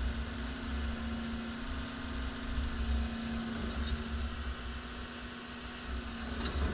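Hydraulic excavator's diesel engine running steadily with a deep rumble and a steady hum that drops out near the end.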